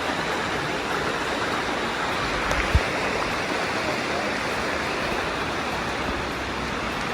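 Steady rush of water cascading over the rocks of Dunn's River Falls. A single brief low thump comes just under three seconds in.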